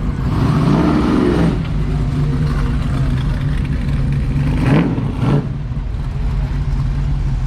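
Car engine running close by, its pitch rising and then falling in the first second and a half as it accelerates away, then idling steadily, with two short sharp sounds about five seconds in.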